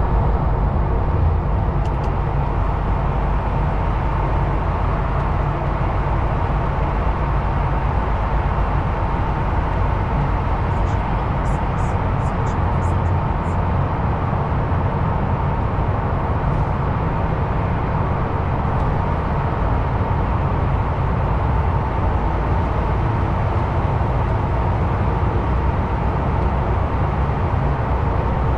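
Steady engine and road noise inside the cab of a DAF XF truck on the move, with a short run of faint high ticks around the middle.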